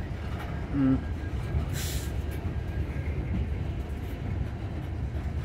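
Tank cars rolling past on the rails: a steady low rumble of steel wheels on track. A short pitched squeal comes a little under a second in, and a brief hiss at about two seconds.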